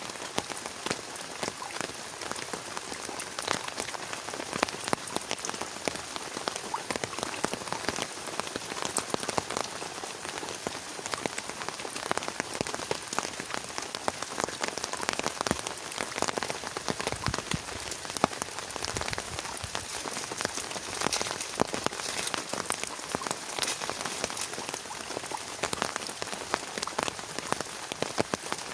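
Heavy rain falling steadily, with many close individual drops striking a hard surface.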